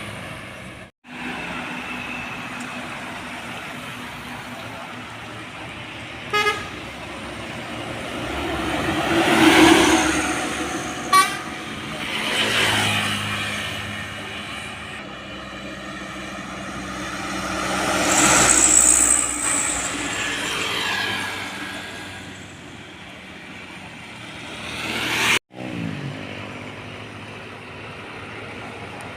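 Road traffic with heavy trucks passing one after another, the engine and tyre noise swelling and fading with each pass. Two short horn toots sound about six and eleven seconds in.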